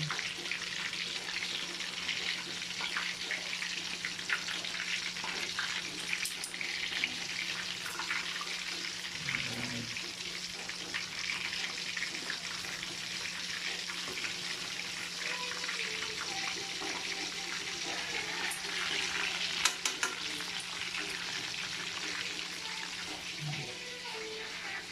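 Chicken frying in hot oil: a steady sizzle full of small crackles, with a few sharp clicks here and there, the loudest about twenty seconds in.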